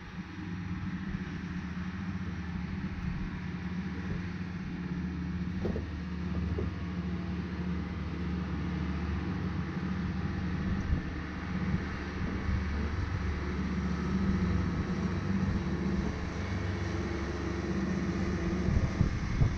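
Cessna 140A light plane's piston engine running steadily, with wind rushing past.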